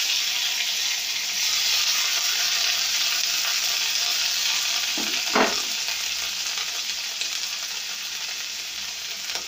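Boiled cabbage pieces sizzling as they fry in hot ghee, a steady hiss that eases slightly toward the end.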